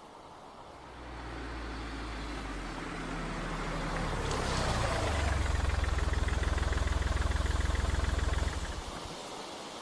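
Car engine running with a low steady hum, getting louder over the first few seconds, with a brief hiss about four and a half seconds in. It then stops abruptly about eight and a half seconds in.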